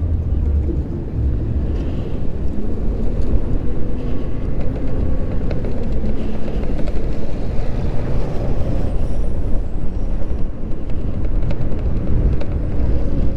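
Riding an Onyx RCR electric moped in city traffic: heavy wind rumble on the microphone mixed with road and traffic noise, over a faint steady hum.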